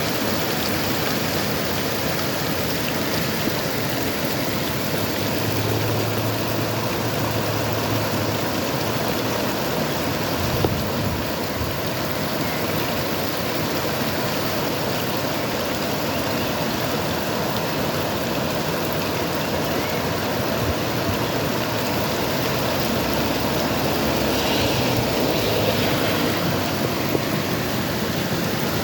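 Steady rain falling, an even rushing hiss that holds at the same level throughout.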